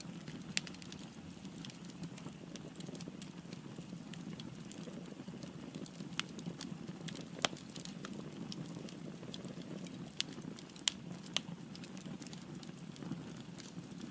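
Firewood burning in a fireplace: a steady low rumble of flames with irregular sharp crackles and pops from the logs, a few of them louder than the rest.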